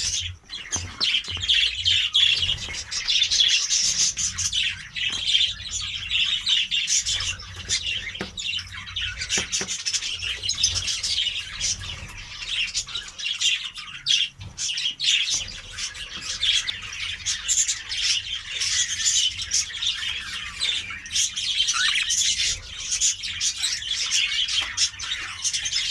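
A flock of caged budgerigars chattering, with continuous overlapping chirps and squawks.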